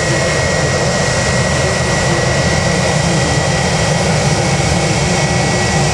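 Jet airliner's engines running steadily: a constant high whine over a low rumble.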